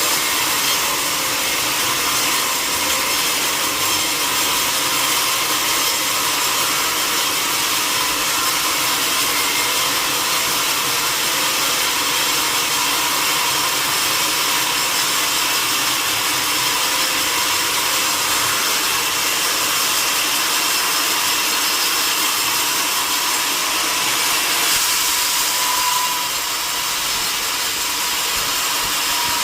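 Sawmill saw cutting through a mahogany log with a steady, high-pitched saw noise. It eases slightly near the end.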